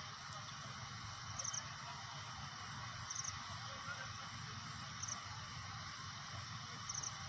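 A short, high chirp of three or four rapid pulses repeats about every two seconds over a steady background hiss.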